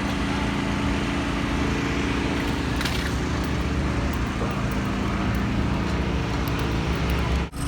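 Steady mechanical drone of machinery running, a constant low hum under an even noise. It drops out briefly near the end.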